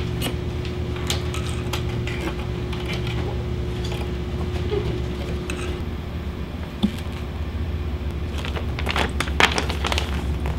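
Small clicks and knocks of plastic and metal parts being handled on a Singer Futura sewing machine while a presser foot is fitted, scattered at first with a quick cluster of clicks about nine seconds in, over a steady low hum.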